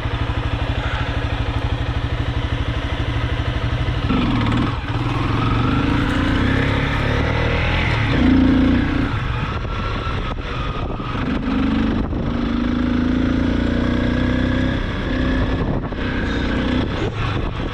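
Motorcycle engine running as the bike is ridden through soft sand, its pitch rising and falling with the throttle.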